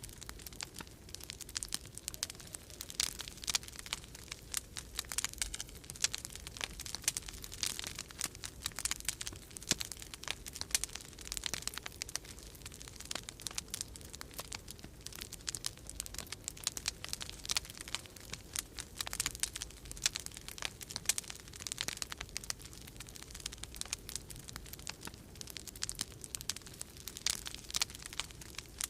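Wood fire crackling in a fireplace: dense, irregular pops and snaps throughout, over a low steady rumble.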